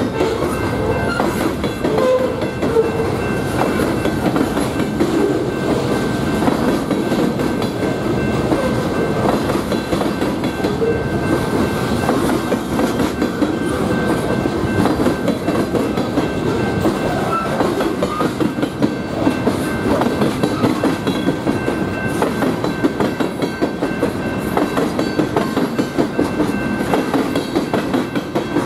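Freight train of boxcars and lumber-loaded centerbeam flatcars rolling past at speed: a steady rumble with wheels clacking over the track, the clacks settling into a regular beat in the last third.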